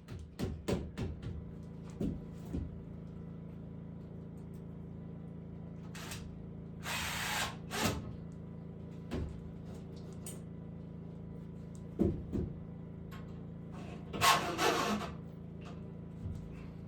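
Hand woodworking on boards: scattered knocks and taps on wood, with two short spells of scraping or rasping noise, over a steady low hum.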